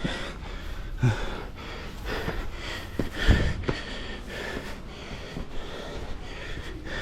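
A person breathing hard from the effort of a steep climb over rocks, with a few dull knocks about a second in and again a little after three seconds.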